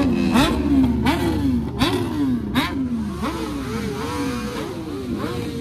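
Several sport motorcycle engines being revved in quick repeated blips, their pitch shooting up and dropping back over and over, overlapping one another. A few sharp cracks sound in the first half.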